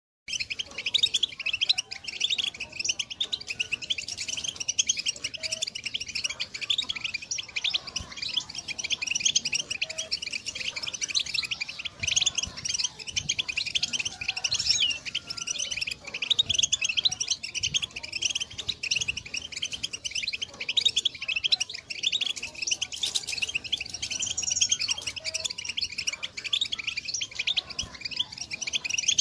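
European goldfinch chattering and twittering: a dense, continuous run of rapid high chirps and trills, the mating and readiness calls used to stir a male goldfinch into song.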